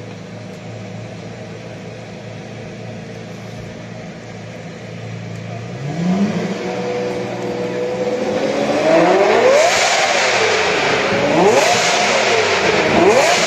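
A Lamborghini's engine idling steadily, then revved about four times from around six seconds in. Each rev climbs in pitch and drops back, and the later revs are the loudest.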